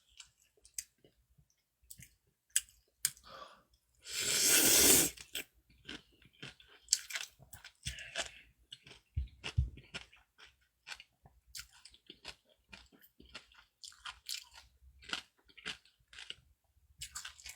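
A person chewing cold noodles and dumplings close to the microphone: many short, irregular mouth clicks, with one longer, louder noisy stretch about four seconds in.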